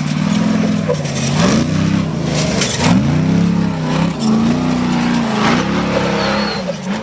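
Off-road race vehicle's engine revving hard, its pitch rising and falling again and again as the driver works the throttle over rough desert track. There are noisy rushes in between, about a second and a half in and again around three seconds.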